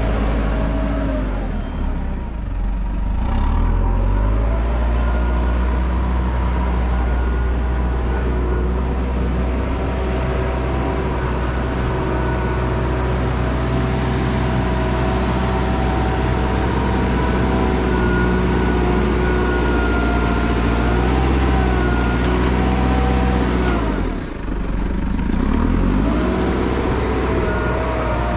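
A vehicle's engine running steadily while driving. Its note dips briefly and climbs again near the end.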